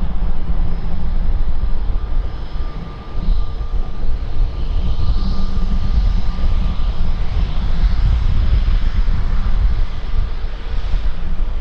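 Airliner engines running with a steady low rumble and a faint whine that holds from about two seconds in to about seven seconds.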